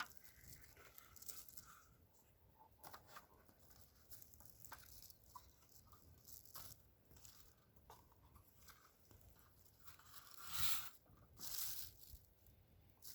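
Faint hand-handling of refrigerated crescent roll dough being peeled and pulled apart: soft tearing and crinkling with scattered small clicks, and two louder rustles near the end.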